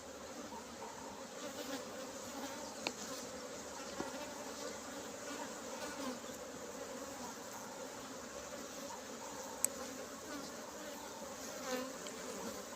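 Honeybees buzzing steadily in an open hive during a brood box inspection, a continuous many-bee hum, with a few faint clicks.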